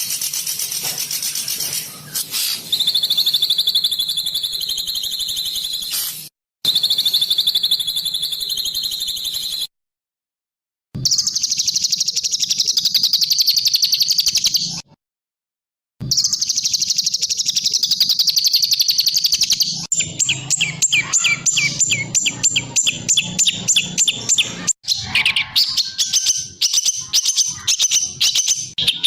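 Recorded songbird song, edited together: long runs of high-pitched trilling and chattering, broken by abrupt cuts with short silences, and turning to fast repeated staccato notes in the last third.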